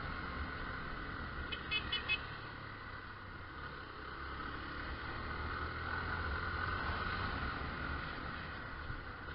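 Motorcycle riding noise, engine and wind running steadily, with a quick run of three or four short horn beeps about two seconds in.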